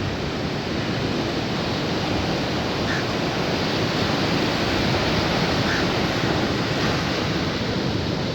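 Sea surf breaking and washing onto a beach, a steady continuous rush of waves.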